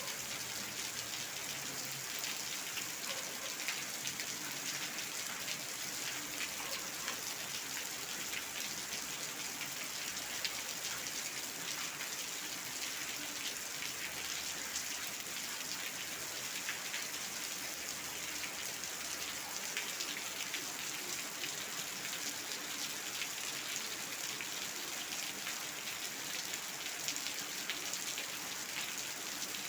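Steady rain with many individual drops splashing on a hard floor, a dense patter of drop impacts over an even hiss.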